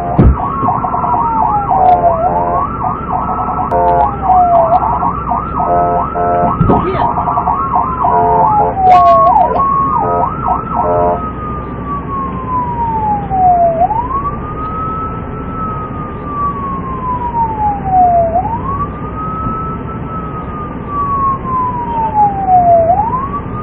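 Police car siren wailing in slow rising and falling sweeps. In the first half a faster yelping siren and a second set of tones overlap it, then drop out about eleven seconds in, leaving the slow wail alone.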